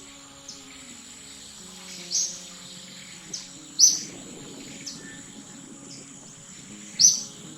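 Short, sharp, high-pitched chirps, three loud ones about two, four and seven seconds in and fainter ones between, over a steady high-pitched hum.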